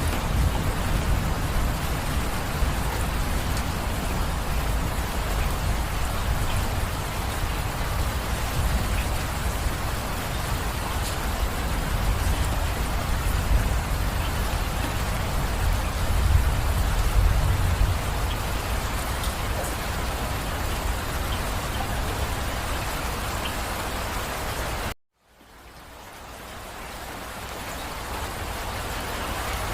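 Steady rain falling, a dense even hiss over a deep low rumble that swells a little past the middle. About 25 seconds in, the sound cuts out abruptly and then fades back in over a few seconds, like a splice where the recording loops.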